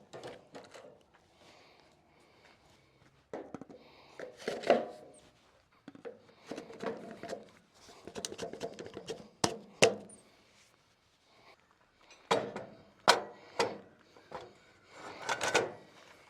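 Irregular clanks, knocks and scraping of metal parts being handled and fitted as a custom log turner is set back onto a sawmill, with the sharpest clanks a little after halfway and again toward the end.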